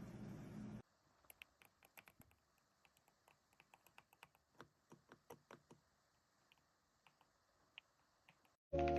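Faint typing clicks on the YUNZII B75 Pro 75% gasket-mount mechanical keyboard, several keystrokes a second, thinning out after about six seconds. A steady hum cuts out about a second in, and music comes in just before the end.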